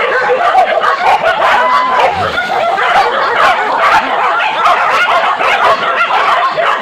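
A pack of village hunting dogs yelping and baying together without pause, many voices overlapping in a steady loud chorus.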